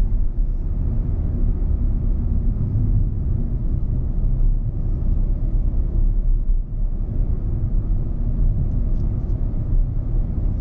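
Steady low road and engine rumble inside the cabin of a moving Hyundai Venue 1.2 petrol SUV, with a brief dip in level about two-thirds of the way through.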